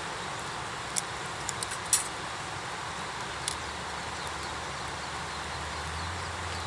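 Campfire crackling, with a few sharp pops about a second in, a cluster around two seconds (the loudest), and one more near the middle, over a steady hiss.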